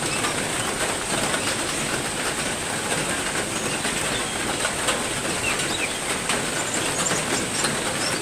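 Heavy rain falling steadily, with small birds in the aviary chirping briefly now and then, and a steady high-pitched tone above the rain.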